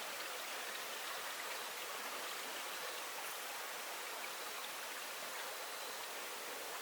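Steady hiss of flowing stream water, with a few faint ticks.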